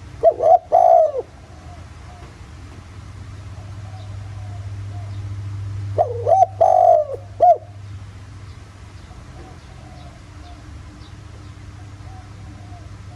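Spotted dove cooing: two loud phrases of several coos each, about six seconds apart. Fainter coos come in between, over a steady low hum.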